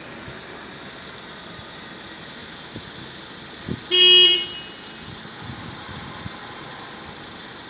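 Steady background noise of city traffic, with one short vehicle horn toot of about half a second just past the middle, clearly louder than everything else.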